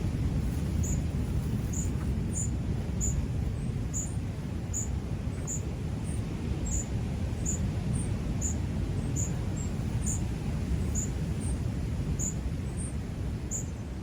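A small bird chirping over and over, short high notes about one and a half times a second, over a steady low rumble of wind and ocean surf.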